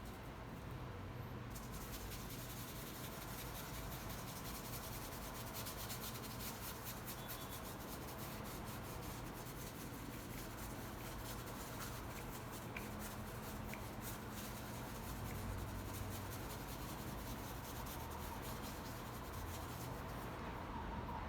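A paintbrush rubbing and scrubbing paint onto the painting surface in many quick, fine scratchy strokes, starting about a second and a half in.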